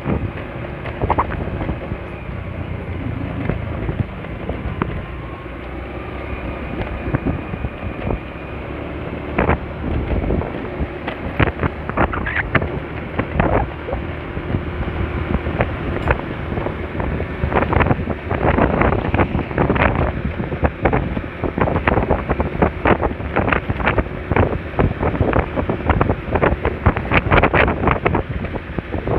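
Wind buffeting on the microphone of a moving scooter, over its engine and road noise; the gusty crackling grows heavier from about ten seconds in.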